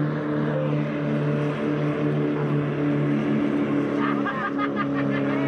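Racing boats powered by Mitsubishi L300 engines running flat out at a steady pitch.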